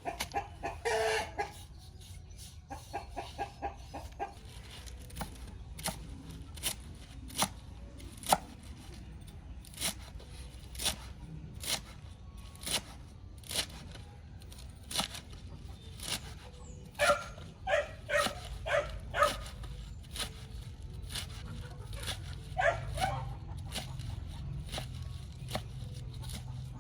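Domestic chickens clucking in short clusters of calls, with a run of sharp knocks roughly once a second through the middle.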